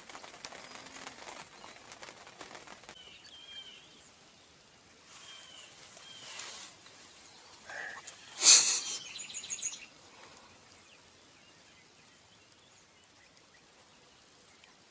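Birds calling: a few short chirps, then one louder call about halfway through that runs on as a quick series of notes for about a second and a half. Faint rustling comes in the first few seconds.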